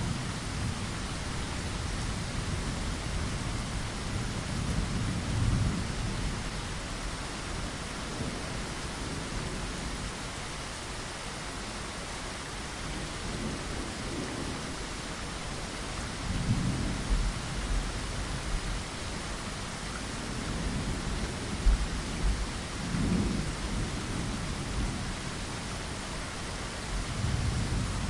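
Steady rain falling against a window glass, with several low, slow rumbles of distant thunder rolling in and out.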